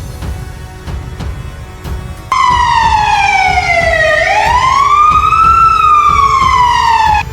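A siren wailing loudly over background music, coming in suddenly about two seconds in. Its pitch falls, rises, then falls again before it cuts off sharply near the end.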